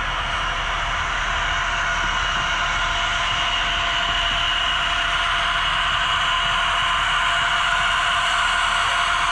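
HO scale model train running on the layout's track: a steady whirring rush of wheels and motor with a thin, even whine through it, growing a little louder.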